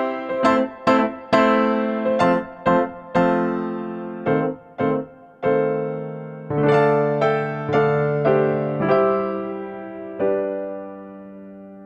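Background piano music: a gentle melody of single struck notes that slows into longer held chords, the last one fading away near the end.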